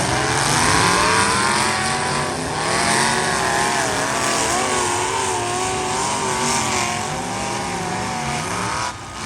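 Several demolition derby car engines revving hard at once, their pitches wavering up and down over a steady noisy haze. The sound drops sharply near the end.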